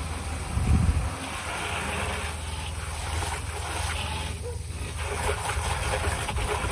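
Mahindra tractor's diesel engine idling steadily, with a hiss over it and a brief louder low rumble just under a second in.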